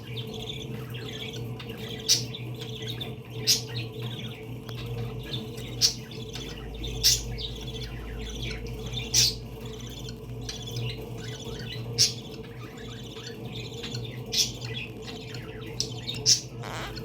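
A flock of pet parakeets chattering, with sharp squawks every second or two over continuous twittering.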